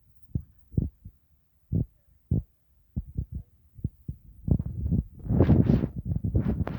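Irregular low thumps and rumbling on the microphone, swelling into louder, denser noisy surges over the last two seconds.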